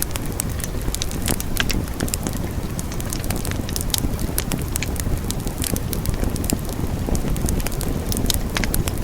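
Wood fire burning: a steady low rushing sound under many quick, irregular crackles and pops.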